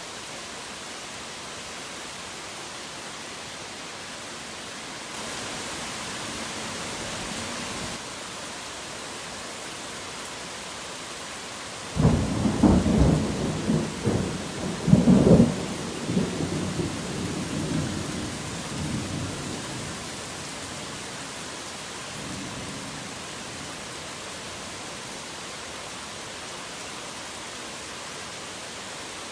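Heavy rain falling steadily, with a sudden thunderclap about twelve seconds in that cracks and rumbles loudly for a few seconds, then rolls away. A fainter rumble follows a few seconds later.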